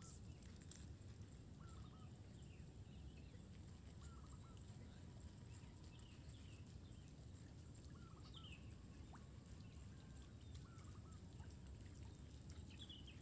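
Near silence: a faint low rumble, with faint, short bird calls repeating every second or two.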